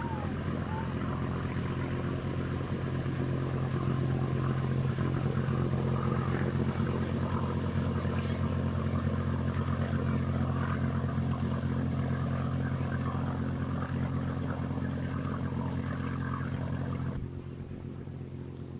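A small boat's engine running steadily, with the hiss of water alongside; near the end it is throttled back and becomes quieter.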